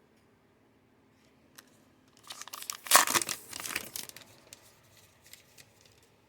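Trading-card pack wrapper being torn open and crinkled by hand: a short burst of tearing and crinkling, loudest about three seconds in, then a few light rustles.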